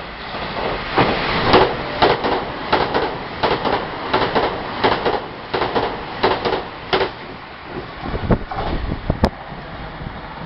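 Puyuma Express train passing through a station without sounding its horn. The wheels clack over the rail joints in quick repeated pairs for about six seconds, then thin out to a few duller low thumps.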